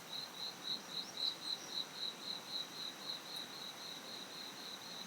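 An insect chirping steadily, a run of short, high, evenly spaced pulses at about three to four a second, faint against a background hiss.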